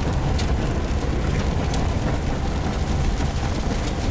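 Steady low rumble of a car driving fast on a rural road, engine and road noise heard from inside the cabin, with a few faint ticks.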